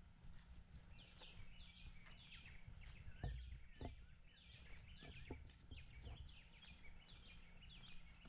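A forest bird singing a fast, chattering run of short falling notes, repeated over and over from about a second in, with a few footsteps on dry leaf litter.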